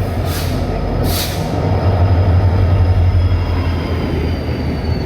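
Express passenger train running through a station at speed, a steady low rumble of its wheels on the track. Two short hisses come in the first second or so, over a thin high whine that slowly falls in pitch.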